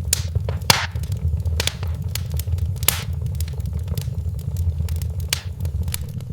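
Wood fire in a fireplace crackling: irregular pops and snaps, a few louder than the rest, over a steady low rumble.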